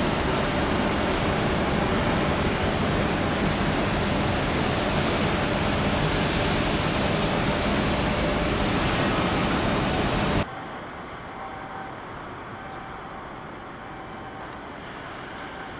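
A loud, steady rushing noise with no clear tones, which drops sharply to a much quieter hiss about ten seconds in.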